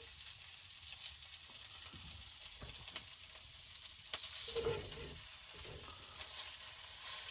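Food sizzling in a frying pan, a steady high hiss with scattered clicks and spits. A louder cluster of knocks comes about four to five seconds in.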